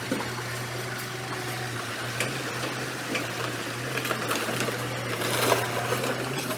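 Diesel engine of heavy earthmoving machinery running steadily, with scattered clicks and knocks and a louder rasping burst about five and a half seconds in.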